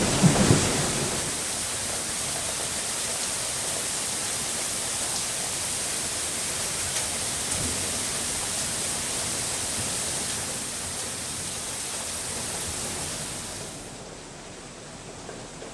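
Steady hiss of heavy rain falling, with the last of a thunder rumble dying away in the first second. Near the end the hiss thins and gets quieter.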